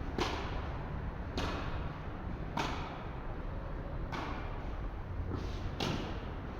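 Tennis rally on an indoor court: rackets striking the ball, a sharp hit every second and a half or so, about five or six in all, each with a short echo.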